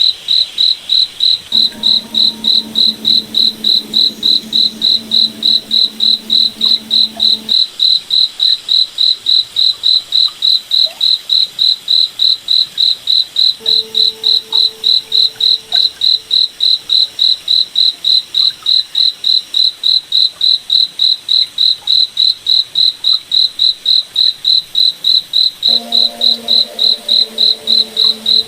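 A cricket chirping steadily and evenly, a high pulse about three times a second. A faint low hum comes and goes beneath it.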